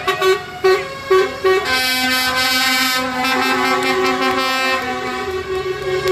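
Vehicle horns on passing parade tractors: a run of short toots, then a longer held blast, with several horns of different pitch sounding over one another.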